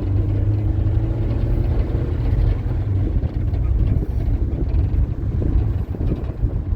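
Low, steady rumble of a vehicle on the move, with a faint rising whine in the first couple of seconds.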